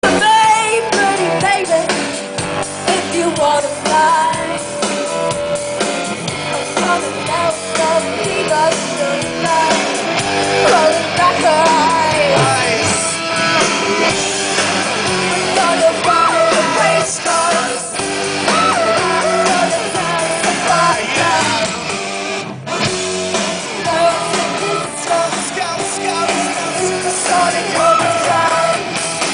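Live rock band performing a song: a singer over guitar and a steady beat, loud and dense.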